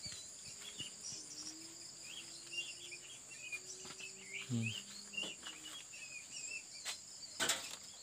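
Caged songbirds giving short, scattered chirps over a steady high insect drone, with a sharp click near the end.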